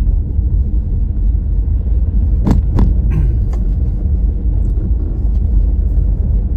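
Steady low rumble of a car driving along a road, heard inside the cabin, with a couple of brief sharp sounds about two and a half seconds in.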